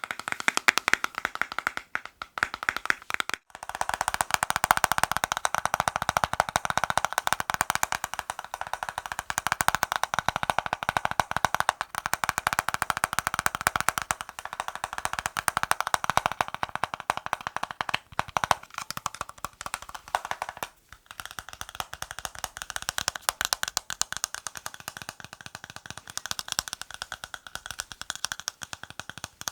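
Fast, dense tapping on a hard object, many taps a second, with short pauses about two to three seconds in and again about twenty-one seconds in.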